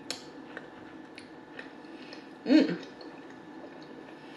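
A person chewing a bite of a sauced, breaded fried chicken tender (a honey chipotle chicken crisper), making small wet mouth clicks and smacks. About two and a half seconds in there is a short voiced 'mm', the loudest sound.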